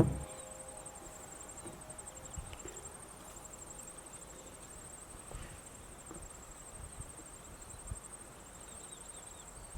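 Insects chirring steadily: a faint, high, rapidly pulsing trill.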